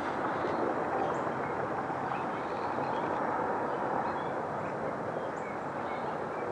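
Steady outdoor background noise, a constant rush with no clear pitch, with a few faint bird chirps.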